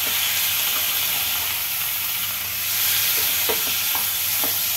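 Sliced onions and tomato sizzling in oil in a kadai while being stirred with a spatula, a steady hiss with a few light clicks of the spatula against the pan about three and a half to four and a half seconds in.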